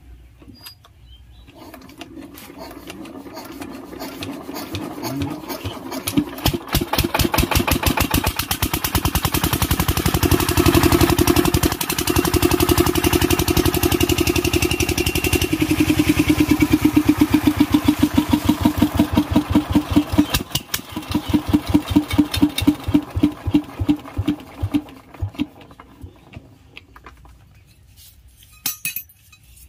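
Single-cylinder Kirloskar diesel engine on a test run during governor adjustment: it picks up speed and runs with loud, rapid, even firing, then the beats space out and it slows to a stop near the end.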